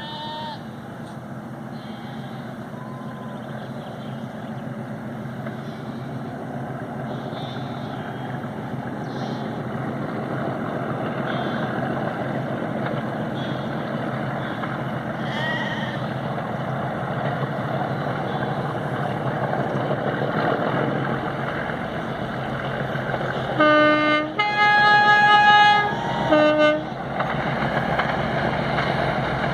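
Vintage diesel locomotives hauling a train, the engine rumble growing steadily louder as they approach. About 24 seconds in they sound a two-tone horn for about three seconds: low, then high, then low again.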